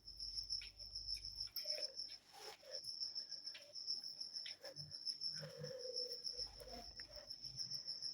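A cricket chirping steadily in the background, one high, finely pulsing tone that does not let up, with a few faint scattered clicks.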